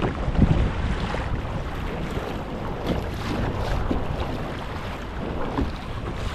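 Wind buffeting the microphone, a steady low rumble with irregular gusts, over water splashing around a kayak.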